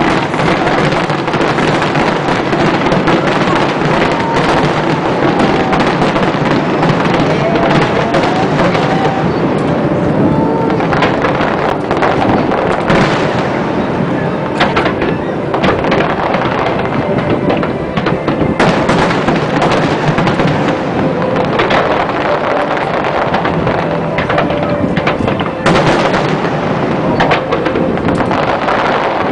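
Aerial firework shells bursting in a dense barrage, booms and crackle running together into a continuous din, with separate sharp bangs standing out in the second half.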